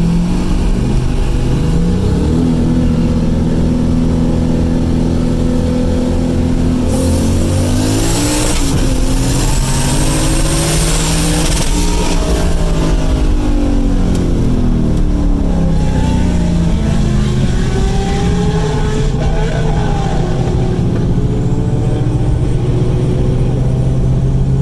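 Turbocharged car engines at full throttle in a roll race. A steady drone gives way, about seven seconds in, to hard acceleration: the engine pitch climbs over several seconds under a loud rushing noise, then drops back about halfway through. After that the engine settles into a steady drone again.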